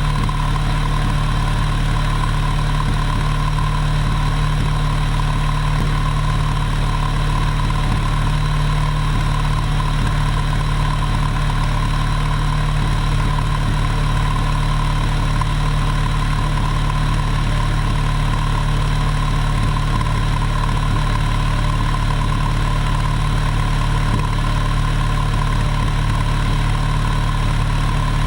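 Exhaust of a Nissan Primera P10's GA16DE 1.6-litre four-cylinder petrol engine idling, steady and even throughout with no revving.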